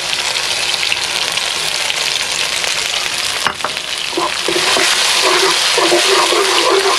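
Food sizzling in hot cooking oil in a pan, a steady hiss that grows louder from about four seconds in, with one sharp click partway through.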